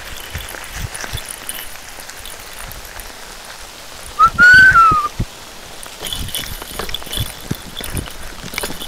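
Rain falling on a dirt track and the surrounding brush, a steady hiss with scattered knocks and rustles. About halfway through a single loud whistle-like note sounds for about a second, rising slightly and then falling.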